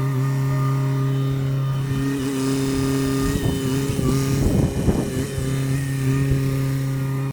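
Sany SY50U mini excavator's diesel engine running steadily under work, with a burst of irregular knocking and clatter about halfway through.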